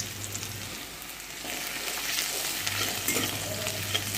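Chopped garlic, ginger and green chilli sizzling in hot oil in a steel kadai. A spatula starts stirring and scraping them about a second and a half in, and the sizzle grows louder.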